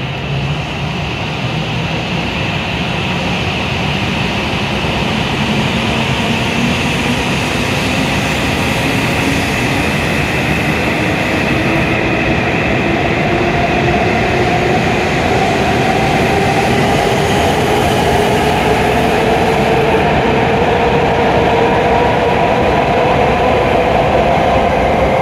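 W7 series Shinkansen electric train pulling out and accelerating. Its traction motors whine in several tones that climb steadily in pitch over a rumble of wheels on rail, growing louder as the cars pass.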